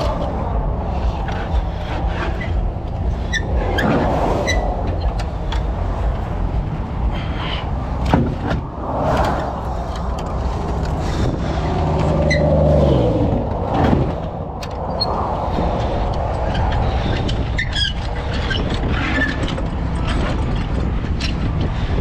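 Motor vehicle engine running with road noise while driving. The engine note rises, then falls away about twelve to fourteen seconds in, with scattered light knocks and rattles throughout.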